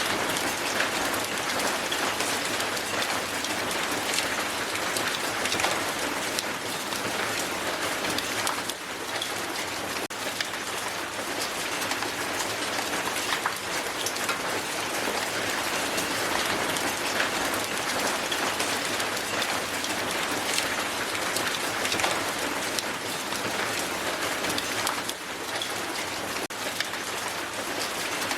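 Strong hail falling onto the ground: a dense, steady patter of countless small sharp ice impacts.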